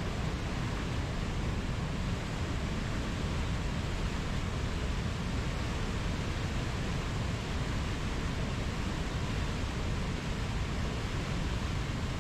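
Steady, even rushing noise with no swells or breaks, heaviest in the low end.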